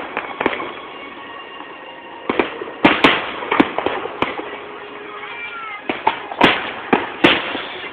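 Aerial fireworks bursting: a run of sharp bangs at uneven intervals over a steady crackle, with a faint wavering whine about halfway through.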